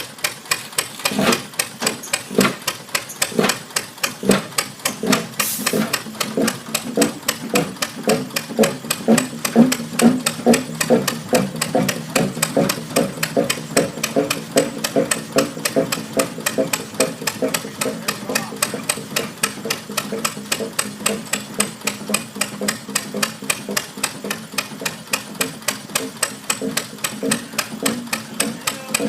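Big old Fairbanks Morse engine running with a sharp knock on each firing stroke. The knocks come slowly in the first few seconds as it comes up to speed after a cold start, then settle into a steady beat of about three a second.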